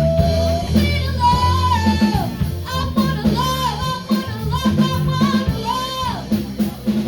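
Live band playing a song with a singer, over bass, guitar and drum kit keeping a steady beat.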